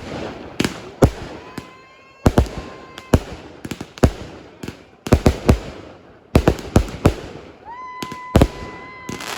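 Fireworks going off in a rapid, irregular series of sharp bangs and crackles. A whistling firework sounds briefly about one and a half seconds in, and again near the end with a short upward glide into a held whistle.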